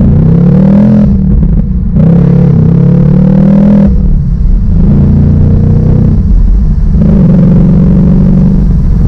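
2019 Ford Mustang Bullitt's 5.0-litre V8 under a light pull through the gears, its pitch climbing in each gear. The climb breaks off at upshifts of the six-speed manual, about a second in and again near four seconds in.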